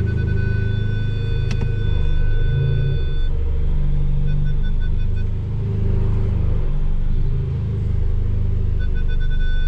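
Stage 2 tuned Volkswagen Polo GTS with a sport exhaust, its engine rumbling low and steady at low revs without revving up. A high electronic tone sounds steadily for about the first three seconds, then comes back as short, evenly spaced beeps near the end.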